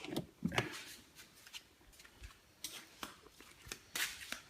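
Faint scattered clicks and rustles of hands handling the plastic body and controls of a 12-volt kids' electric ride-on car.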